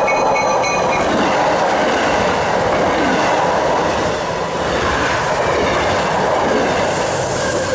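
MBTA commuter train of bilevel coaches passing close by at speed: a loud, steady rush of wheel and rail noise.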